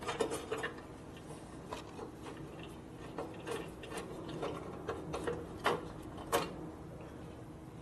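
Hand tools and bolts working against metal parts: scattered, irregular light clicks and taps as bolts are fitted and tightened.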